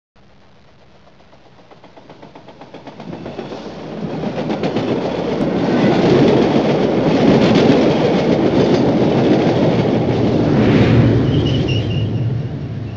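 Train passing by, its wheels clattering rhythmically over the rail joints, growing louder over the first several seconds and easing off near the end, where a short high-pitched toot sounds.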